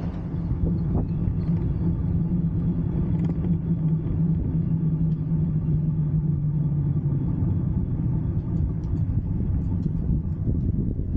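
Diesel locomotive of a short train passing close by: a loud, steady rumble that comes up suddenly, with a low engine hum that fades out about seven seconds in while the rumble goes on.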